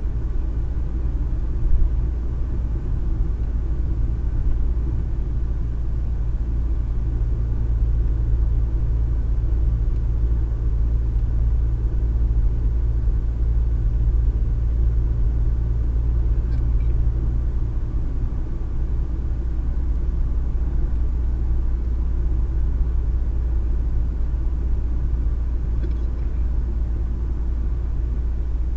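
Steady low rumble of a car's engine and tyres on the road, heard from inside the cabin while driving. A low hum in the rumble shifts slightly about two-thirds of the way through.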